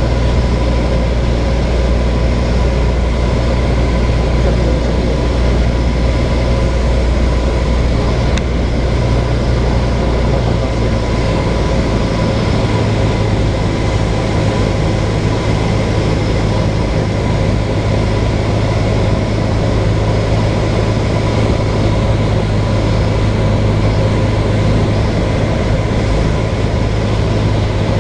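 Light aircraft's engine and propeller droning steadily, heard inside the cabin. About twelve seconds in, its low hum shifts up to a slightly higher note.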